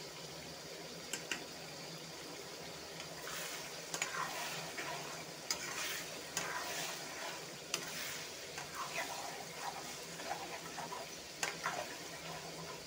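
Chicken hearts sizzling in oil in a kadhai, stirred with a spoon and then a spatula, with scattered clicks and scrapes of the utensil against the pan over a steady frying hiss.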